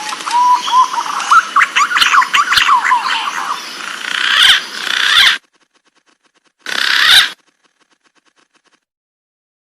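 Green pigeon (punai) calling: rising whistles that break into a rapid run of warbling notes, stopping about five seconds in. A brief loud burst follows about two seconds later.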